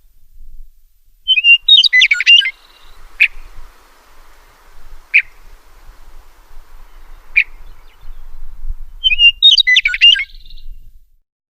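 Songbirds calling: two short warbled song phrases about eight seconds apart, with single sharp chip notes every two seconds or so between them. The recording cuts off abruptly near the end.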